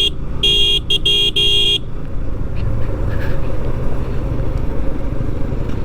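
A vehicle horn gives several short toots in quick succession in the first two seconds, over a steady low rumble of engine and road noise.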